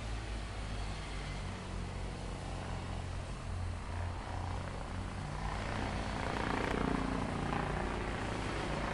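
Mobile crane engine running steadily with a low hum under a wash of machinery noise, growing louder about six seconds in as it works the jib lift.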